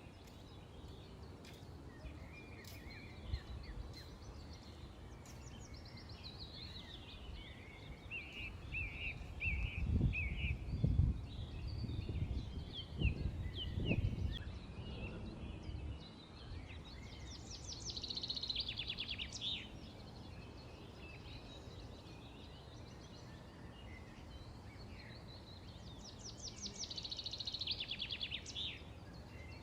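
Small birds chirping and twittering in short scattered calls, with two rapid trills in the second half. A low rumble rises over them for a few seconds in the middle.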